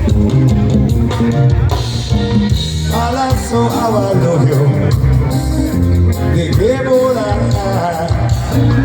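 Live band playing amplified music with heavy bass during a sound check, with a voice singing from about three seconds in.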